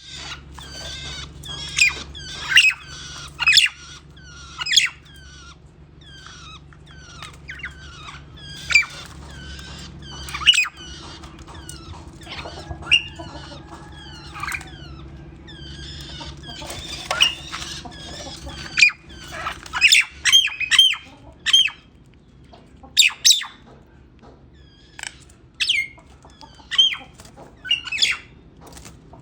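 Pet songbirds chirping in short, sharp calls that sweep up and down in pitch, sometimes several in quick succession, over a steady low hum that eases about ten seconds in.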